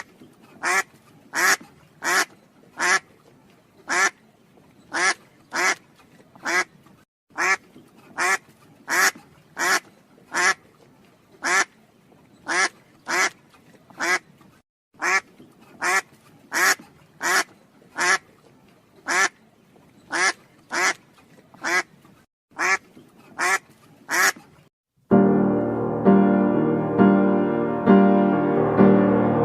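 An animal calling in a long series of short, sharp calls, about one or two a second, with a few brief pauses. Piano music takes over near the end.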